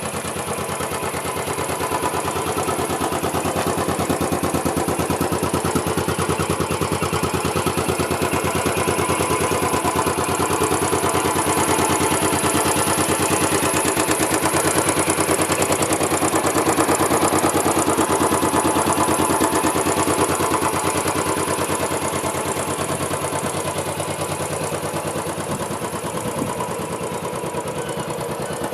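Royal Enfield Bullet 500 Trials' 499 cc air-cooled single-cylinder engine idling with a steady, even beat. It gets a little louder through the middle, then settles back.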